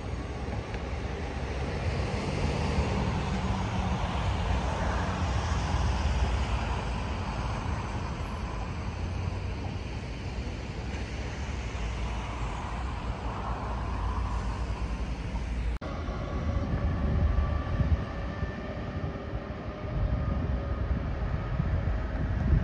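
Steady outdoor rumble with wind buffeting beside a high-speed rail line. After a sudden break about two-thirds of the way through, faint steady whining tones join the rumble and it grows louder as a double-deck TGV approaches in the distance.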